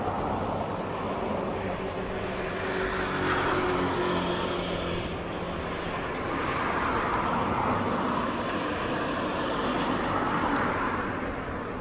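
Road traffic: several cars passing close by one after another, each a broad rush of tyre and engine noise that swells and fades. A low engine hum runs under the first few seconds.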